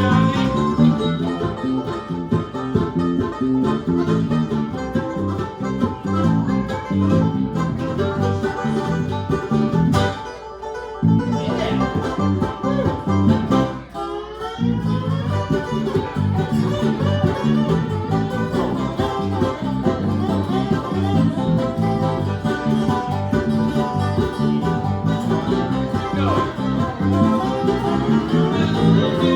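Bluegrass band playing an instrumental break: fast picked banjo and guitar over a bass line. The bass drops out briefly twice, about ten and fourteen seconds in.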